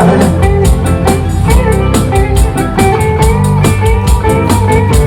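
Live band playing an instrumental break in a country-rock song: guitars over drums, with a steady cymbal beat.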